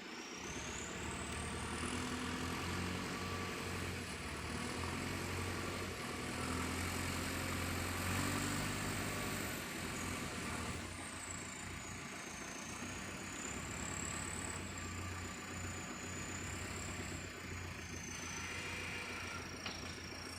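Heavy diesel machinery engines running, a little louder for a stretch about 2 to 10 seconds in, with a thin high whine slowly drifting up and down in pitch.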